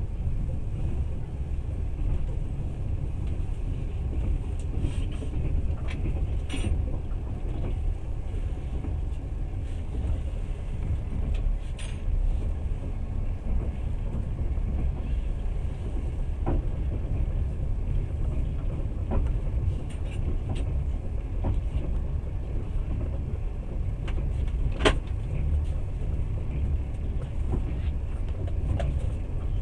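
Steady low rumble of a moving passenger train heard from inside the carriage, with a few sharp knocks now and then, the loudest near the end.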